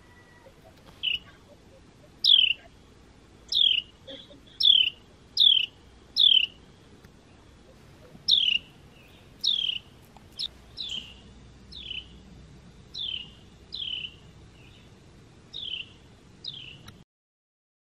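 A wild bird calling repeatedly in woodland: about fifteen single, short, downslurred chirps, irregularly spaced about a second apart. The calls cut off suddenly near the end.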